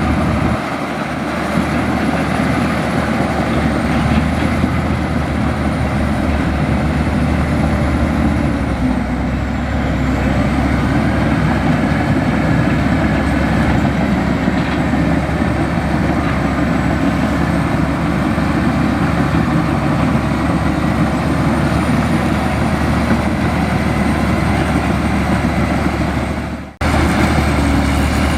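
Heavy diesel engine of a Komatsu bulldozer running steadily, with a faint high whine wavering above it. The sound drops out suddenly for a moment about two seconds before the end, then resumes.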